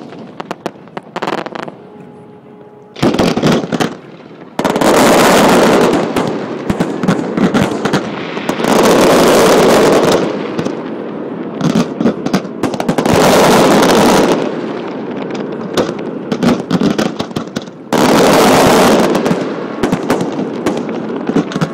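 Fireworks going off at close range: a few sharp bangs, then repeated loud stretches of dense crackling, each a second or two long, as crackling-star effects burst and fizz out.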